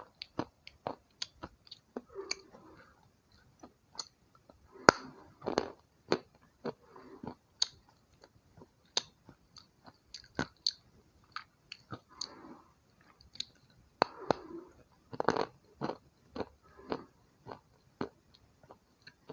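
Close-up crunching of white slate pencil being bitten and chewed: sharp irregular snaps with short bursts of gritty chewing between them.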